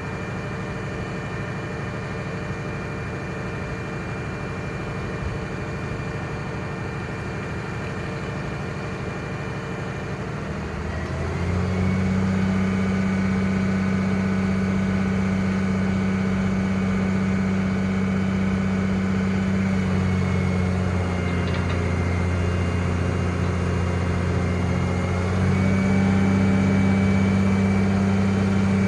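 Cummins 5.9-litre six-cylinder turbo diesel running at idle, then stepping up to a higher steady speed about a third of the way in. It eases off briefly past the middle, comes up again near the end, and drops back just before the end.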